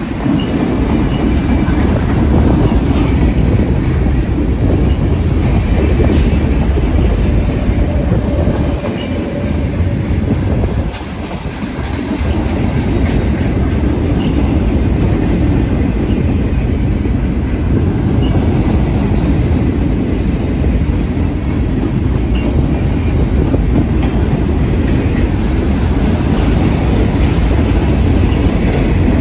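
Freight cars of a CSX mixed freight train rolling past close by: a loud, steady noise of steel wheels on rail, with faint short high squeaks now and then. It dips briefly about eleven seconds in.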